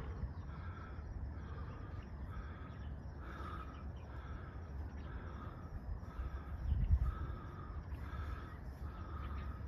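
A bird calling over and over, evenly spaced a little faster than once a second, over a steady low rumble.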